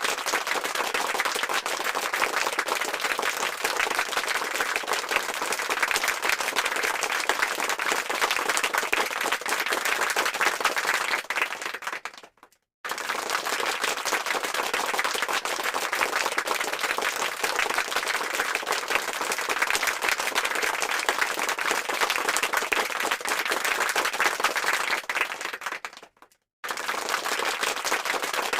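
Crowd applause, dense and steady. It breaks off twice into a moment of silence, after about twelve seconds and again near the end, and starts again each time, as a repeated applause sound-effect clip.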